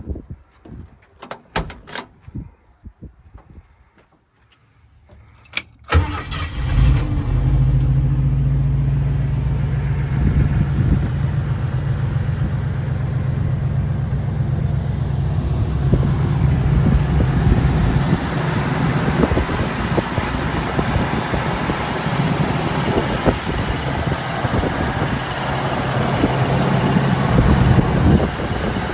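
A few clicks, then about six seconds in a 1977 Ford Bronco's engine starts from cold and settles into a steady idle.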